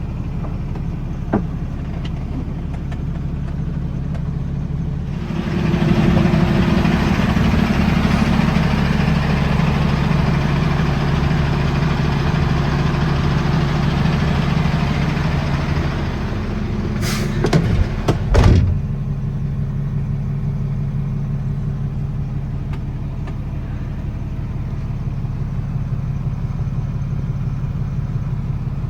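The Detroit DD8 7.7-litre turbo diesel of a Freightliner M2-106 water truck, idling steadily. From about five seconds in, a louder stretch with a broad hiss over the engine lasts some eleven seconds. A few brief sharp sounds follow about a second after it ends.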